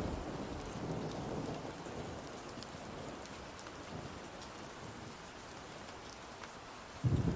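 Steady rain falling, with a low rumble of thunder slowly fading away. Near the end a new, louder thunder rumble breaks in suddenly.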